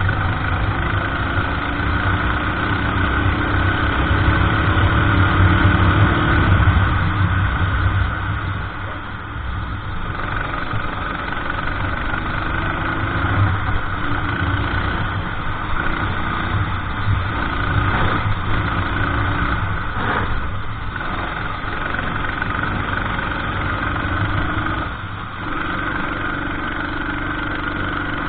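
Racing kart engine running hard, picked up onboard: its pitch climbs over the first several seconds. It then drops off about eight seconds in and dips again near the end, as the kart lifts off for corners.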